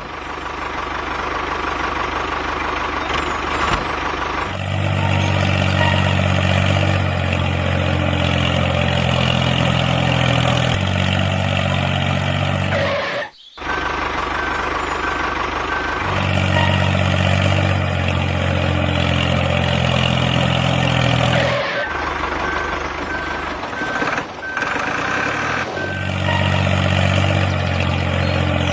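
Vehicle engine running steadily, with abrupt breaks where the sound cuts and resumes. A rapid beeping comes in twice, in the second half.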